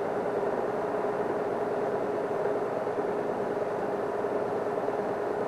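Safari game-drive vehicle's engine idling steadily, with a constant hum.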